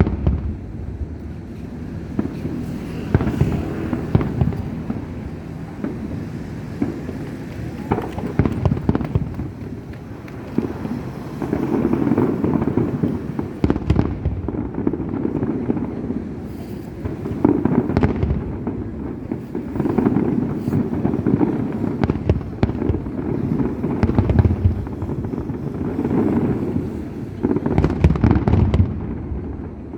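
Aerial fireworks display: a continuous barrage of booming shell bursts and sharp cracks over a rolling rumble, growing denser and louder about midway.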